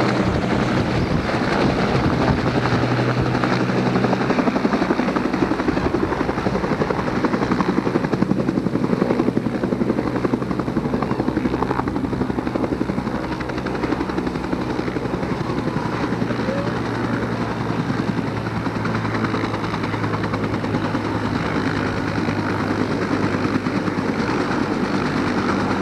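Helicopter running steadily close by, a continuous rotor and turbine drone with a steady low hum.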